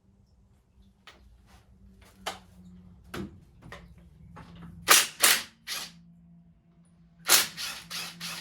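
Metal hand tools clicking and clanking at irregular intervals while bolts come out of the engine, with a few loud clanks about five seconds in and a quick cluster near the end.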